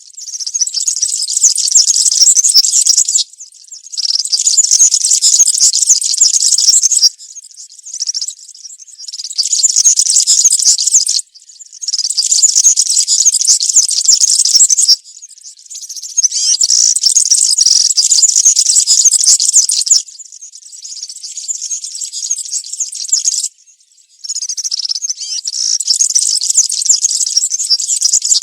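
European serin singing its fast, high-pitched jingling song in phrases of about three to four seconds, separated by short pauses, with a couple of softer phrases between them.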